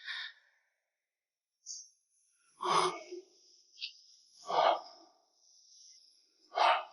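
A person's breathing: three short, breathy bursts about two seconds apart, after a brief near-silent pause.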